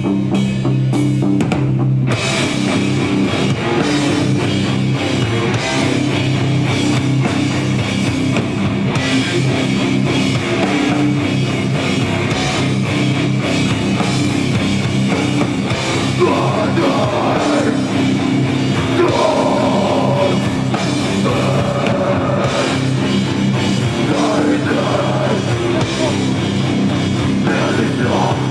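Live rock band playing loudly: drum kit and guitars.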